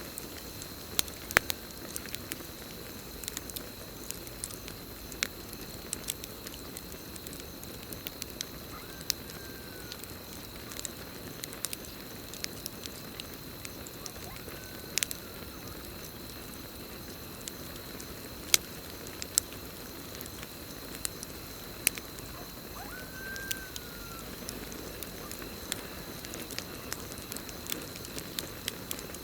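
Campfire burning with irregular crackles and a few sharp pops, over a steady high insect trill. Three brief, arched chirps sound from a night animal at wide intervals.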